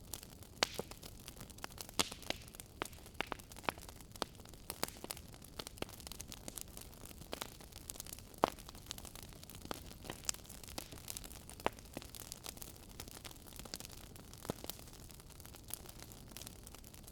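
Wood fire in a fireplace crackling: irregular sharp pops and snaps, several a second, over a low steady rushing of the flames.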